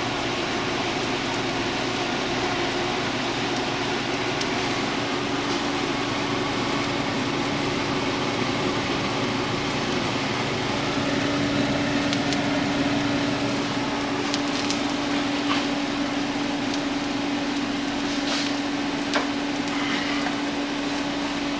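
Bacon sizzling and crackling in a frying pan, over a steady hum. A few sharp clicks come near the end.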